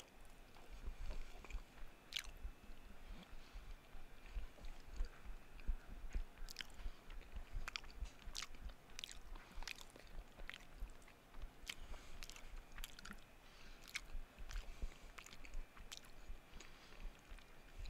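Close-miked chewing and biting of a soft casserole, with sharp mouth clicks and smacks at irregular intervals.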